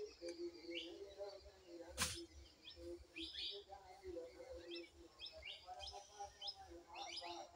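Small birds chirping, many short quick calls one after another, faint, over a fainter wavering lower tone. A single sharp click about two seconds in.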